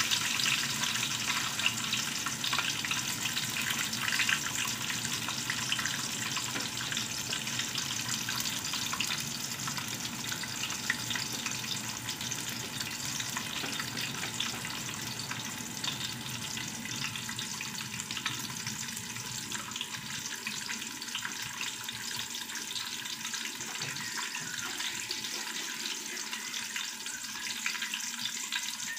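Freshly added sliced onions, green chillies and garlic sizzling in hot oil in a metal pot, a steady dense crackle that slowly grows quieter.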